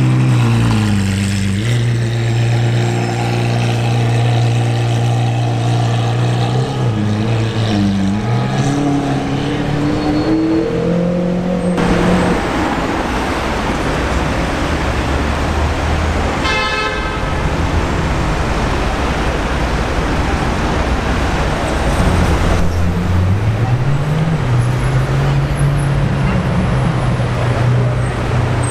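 Supercars driving slowly in city traffic. First a Lamborghini Aventador's V12 running at low revs, its pitch dipping and then climbing, for about twelve seconds. Then traffic noise with a short car-horn toot about halfway through, and finally a McLaren Senna's twin-turbo V8 whose note rises and then holds.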